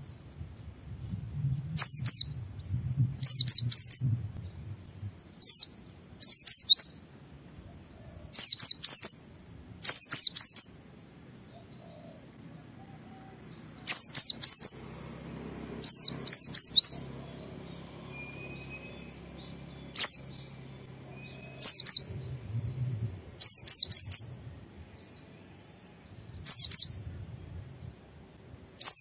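A white-eye (pleci) singing in short, quick phrases of high, sharply descending notes, repeated every second or two, with a pause of a few seconds about halfway through.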